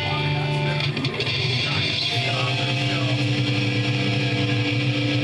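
Electric guitar played through an amplifier, with notes held and left ringing over the second half.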